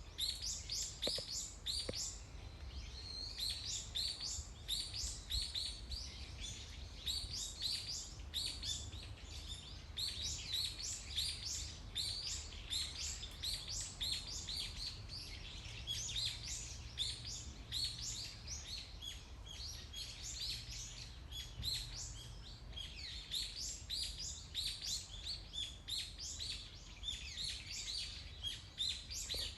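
Small birds chirping together in a dense, continuous chorus of rapid high-pitched calls, over a low steady hum.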